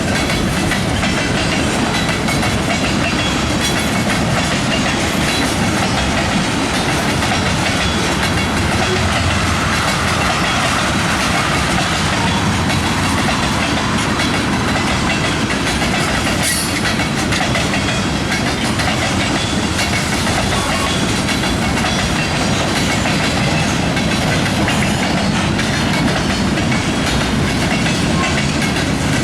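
Cars of a manifest freight train rolling past, a steady rumble with steel wheels clicking over the rail joints and one sharp clank a little past halfway.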